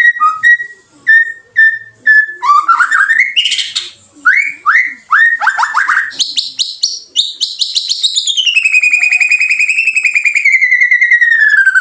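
White-rumped shama singing: a string of short clear whistled notes and quick downward-sweeping phrases, then from about six seconds a fast rattling trill that slides slowly down in pitch.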